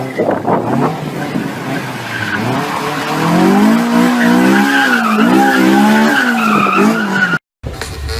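Honda S2000 drifting: its engine is revved high, the pitch wavering up and down, over the skid and squeal of its tyres.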